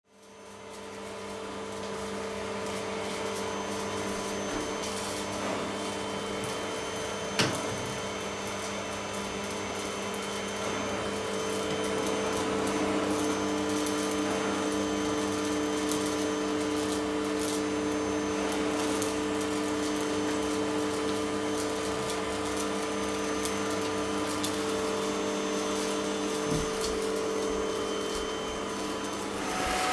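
Vacuum cleaner running with a steady hum. There is one sharp click about seven seconds in, and about twelve seconds in a second tone joins and it gets a little louder.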